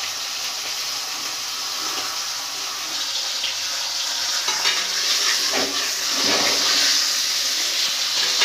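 Fish head pieces sizzling steadily in hot oil in a steel kadai, the sizzle growing louder about halfway through as a metal spatula scrapes the pan and turns them.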